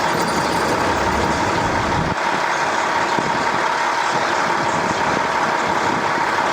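Steady mechanical running noise with a constant whine, like an idling engine or machine; its low rumble drops away about two seconds in.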